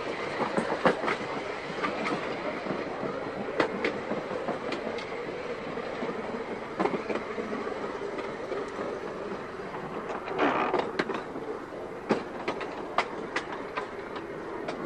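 Seaton Tramway electric tram running along its track, a steady rumble broken by irregular sharp clicks of the wheels over rail joints. A brief, louder rushing noise comes about ten seconds in.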